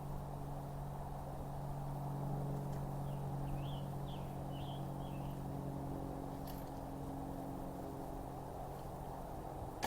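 Steady low hum, with a few short chirps about three to four and a half seconds in.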